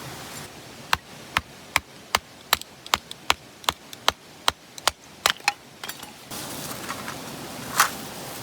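A hand tool striking repeatedly, about two and a half sharp knocks a second for roughly five seconds, then a few lighter taps and one louder knock near the end.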